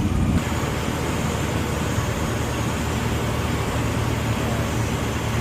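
Cessna 150's four-cylinder Continental O-200 engine and propeller droning steadily in flight, heard inside the cabin.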